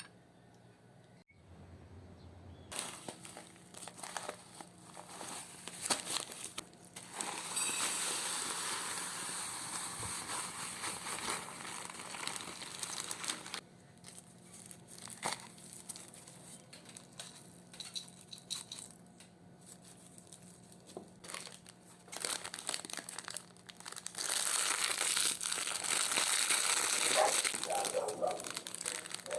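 Crinkling, rustling handling noise in two longer stretches, with scattered clicks between them and a few short squeaky chirps near the end.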